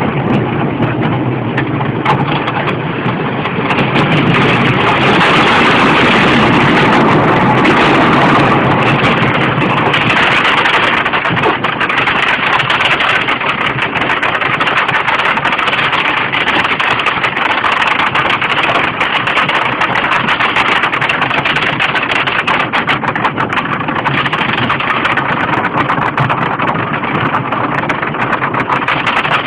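Kentucky Rumbler wooden roller coaster train rattling and clattering along its track, heard from the front seat, loud and distorted. It is loudest for a few seconds from about four seconds in.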